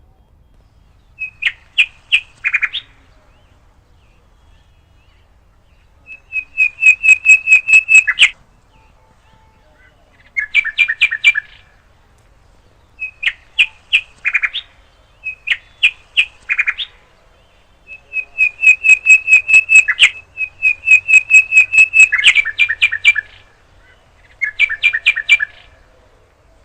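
A bird singing close to the microphone: about eight bursts of rapid, evenly repeated high chirps, each burst one to two seconds long, with short pauses between them.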